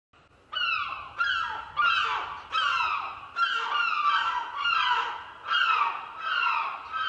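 A bird calling over and over: about ten loud calls, each falling in pitch, one roughly every 0.7 seconds.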